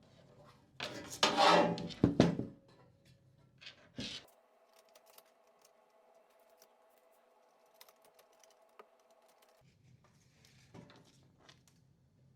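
Clicks and scraping of small parts being handled on a workbench, with a louder rustling scrape about a second in and a faint steady hum in the middle.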